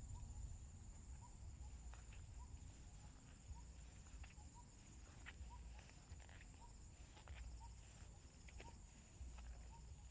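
Faint, steady high-pitched buzzing of insects, with a second higher buzz dropping out about halfway. A short rising chirp repeats about once or twice a second, with scattered faint clicks.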